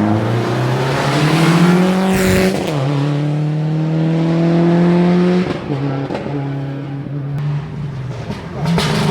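Rally car engine accelerating hard, its pitch climbing and then dropping sharply at upshifts about two and a half and five and a half seconds in, then fading as the car pulls away.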